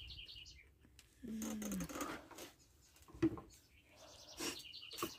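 Small birds chirping in quick high trills at the start and again near the end. A short, low, falling voice-like sound comes about a second in, and a single sharp click a little after the middle.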